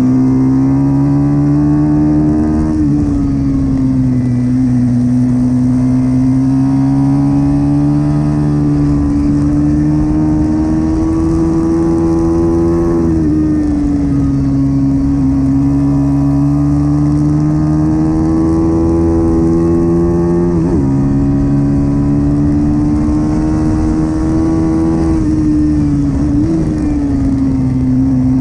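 Pit bike engine running hard under load, its pitch climbing slowly and then dropping sharply four times as gears change.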